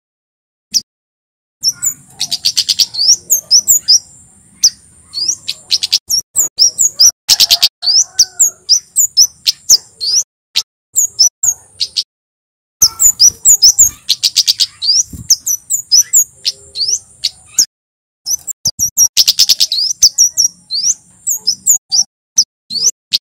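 Male kemade flowerpecker calling: long, rapid runs of sharp, thin, high-pitched chirps, broken by short pauses twice.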